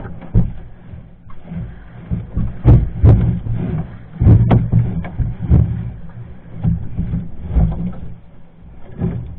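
A steady low engine hum under a string of irregular knocks and thumps.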